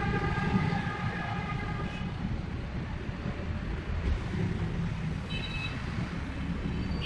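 Restored old generator engine running steadily with a low rumble. A steady high tone sounds over the first two seconds, and a brief higher one comes about five seconds in.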